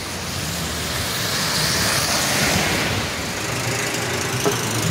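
Strong gusting wind rushing past, swelling about two seconds in and then easing a little, with a low rumble of wind buffeting the microphone.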